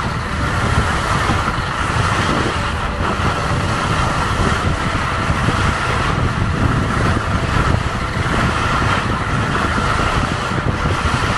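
Wind rushing and buffeting over the microphone during a fast downhill ski run, with skis scraping over the snow: a loud, steady rush with a heavy, fluttering low rumble.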